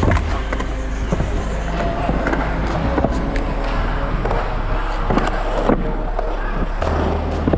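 Skateboard wheels rolling with scattered clacks and knocks of the board, over background music with a steady low bass line.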